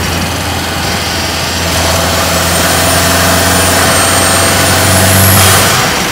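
2022 Mercedes-AMG GLA 45's turbocharged four-cylinder engine and exhaust heard from inside the cabin while driving. The engine note builds a little and then eases off near the end, with a faint high whine above it.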